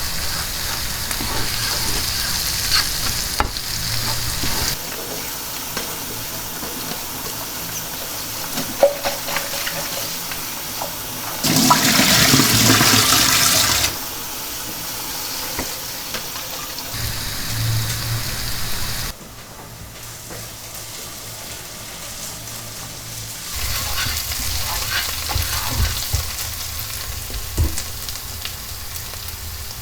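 Food sizzling in oil in a pan while it is stirred, with small scrapes and clicks, across several short edited clips; a louder rushing noise lasts about two seconds near the middle.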